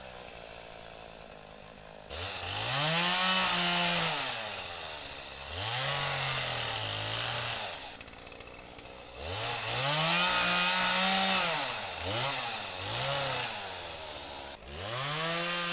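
Two-stroke chainsaw cutting downed trees in repeated bursts: it revs up into the cut and drops back to idle about five times, in short cuts and stops.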